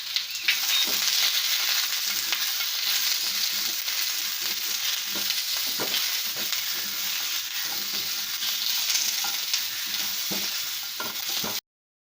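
Diced onion and capsicum sizzling in a little oil in a nonstick pan, with a spatula clicking and scraping as they are stirred. The sound cuts off suddenly near the end.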